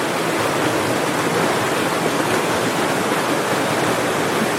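Rushing water of a mountain stream: a steady, loud, even rush.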